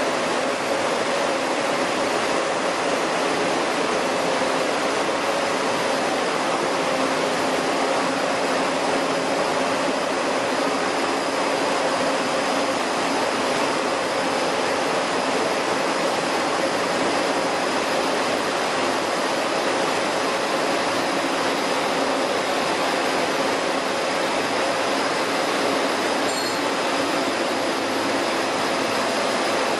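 Chili powder milling machinery running steadily: a dense, even rushing noise with a faint constant whine, unchanging throughout.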